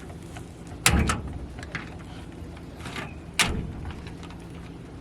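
Two loud thuds about two and a half seconds apart, with a few fainter clicks between them.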